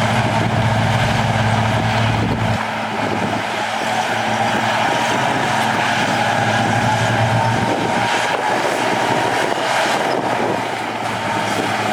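Heavy diesel earthmoving machinery running under load, with a steady high whine over a deep engine note. The deep note falls away about two and a half seconds in, comes back in the middle, and drops again around eight seconds.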